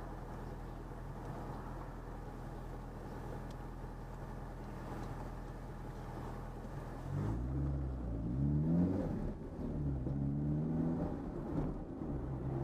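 Car engine heard from inside the cabin, idling steadily, then about seven seconds in pulling away and accelerating, its pitch rising twice with a gear change between and then holding steady.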